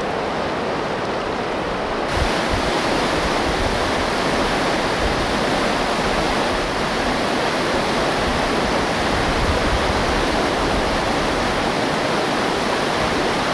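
Whitewater rapids rushing loudly and steadily. About two seconds in, the rushing turns brighter and a little louder.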